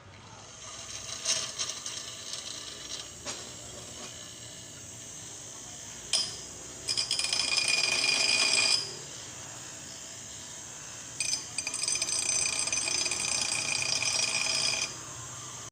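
Bench grinder, its start capacitor newly replaced with a 14 µF one, being load-tested: a workpiece is pressed to the spinning wheel in two grinding passes, about two and three and a half seconds long, each a loud, high-pitched screech. A few clicks and knocks come before the first pass.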